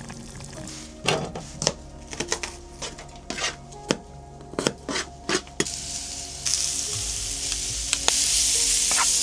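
A utensil stirring and knocking against a cooking pot over a campfire, with sharp clinks for the first several seconds. About six seconds in a loud sizzling starts, growing louder near the end, as food hits the hot pot.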